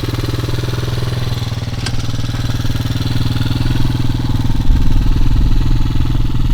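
Hawk Pro 250 dirt bike's single-cylinder four-stroke engine idling steadily just after being started, getting a little louder in the second half. A short click about two seconds in.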